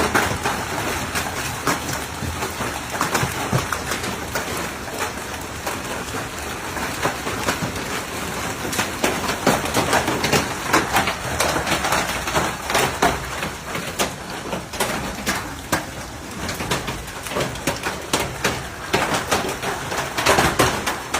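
Hailstorm: hailstones falling heavily and striking hard surfaces in a dense, irregular clatter of sharp hits.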